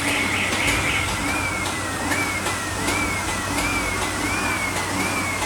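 Paper lid machine running at low jog speed: a steady motor hum, with a high whine that rises and falls about every 0.7 s as the mechanism cycles (quicker in the first second), and light ticking.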